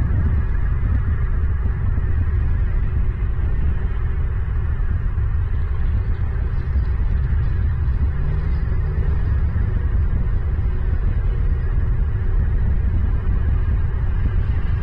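A steady low rumble with a noisy hiss above it, unchanging throughout.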